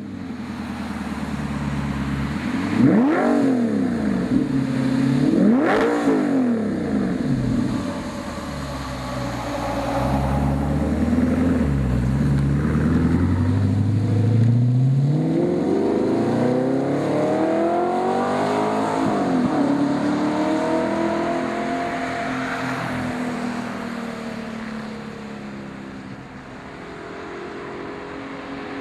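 Audi R8's 4.2-litre V8 through a Fabspeed Supersport aftermarket exhaust: two quick sharp revs a few seconds in, then a longer, slower climb in engine speed that peaks and gradually falls away.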